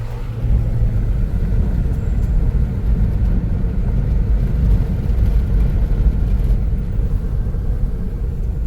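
Car driving along a winding mountain road: a steady low rumble of road and engine noise as heard inside the cabin.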